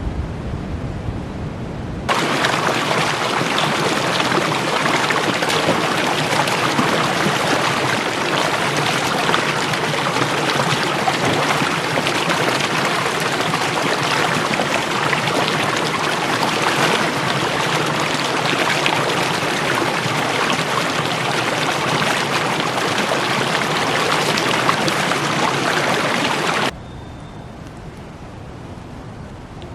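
Heavy rain falling: a loud, dense, steady hiss of many drops that starts abruptly about two seconds in and cuts off abruptly near the end. A quieter, even rain-and-wind noise comes before and after it.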